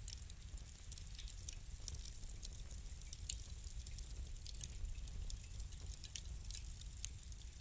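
Wood fire burning in a fireplace, crackling with many small, irregular pops over a low steady rumble.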